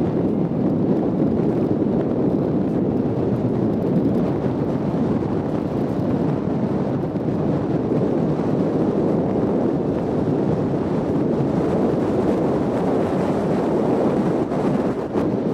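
Steady low rushing rumble with no distinct events, the kind of noise wind on the microphone or a moving vehicle makes.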